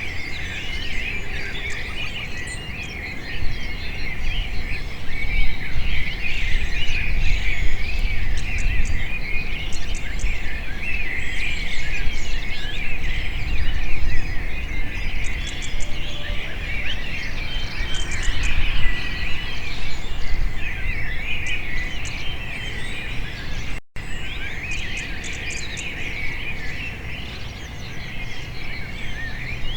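Many small birds chirping and twittering at once, a dense, unbroken flock chatter, over a low rumble of background noise. The sound cuts out for an instant about 24 seconds in, then carries on.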